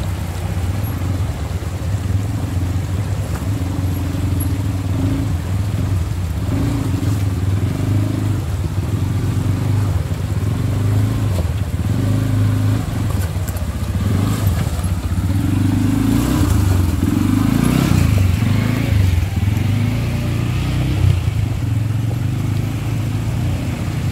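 ATV engine running off-road, its pitch rising and falling with the throttle, and revving harder about two-thirds of the way through.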